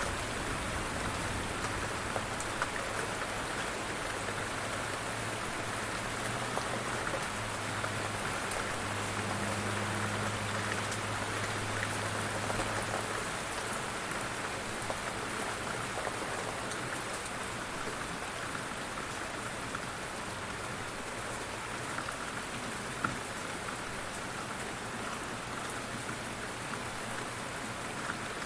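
Steady rain falling, an even hiss with pattering drops. A low rumble underneath fades out about halfway through.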